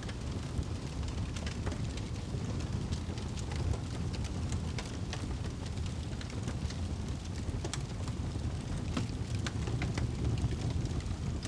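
Wood fire in a fireplace crackling: a steady low rumble of burning with frequent sharp pops and snaps scattered irregularly throughout.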